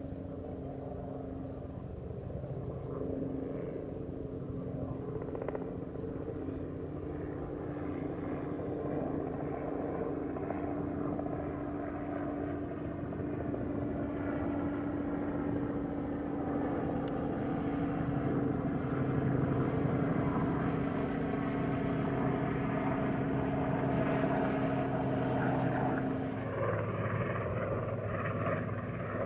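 A distant engine drone: a steady low hum that slowly grows louder, then shifts to a lower pitch near the end.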